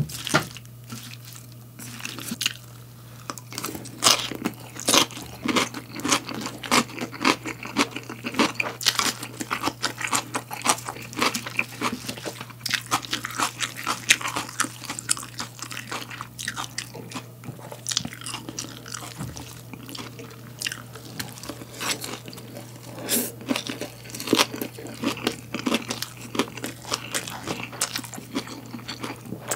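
Close-miked chewing of a salad of crisp raw vegetables (lettuce, cucumber, bell pepper) with chewy white wood ear mushroom: a dense, irregular run of wet, crisp crunches.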